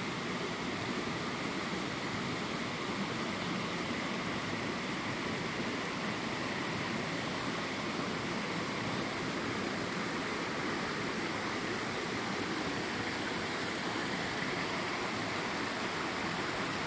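Water of a small creek waterfall rushing and splashing, a steady, even rush with no breaks.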